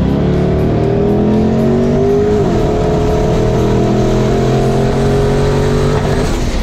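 Turbocharged LS V8 accelerating hard under boost through the gears. The revs climb steadily, with upshifts right at the start and about two and a half seconds in.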